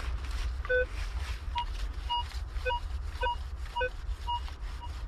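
Minelab Vanquish 440 metal detector giving short beeps at several different pitches, low and high, about twice a second, the tones it sounds for targets under the coil.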